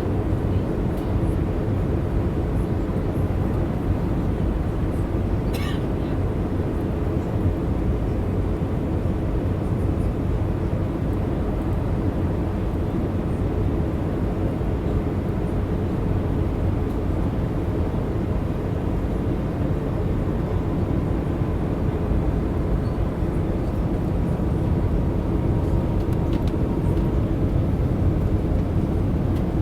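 Steady airliner cabin noise inside an Airbus A319 in flight: a low, even mix of engine and airflow noise with a faint steady tone. A brief click comes about six seconds in.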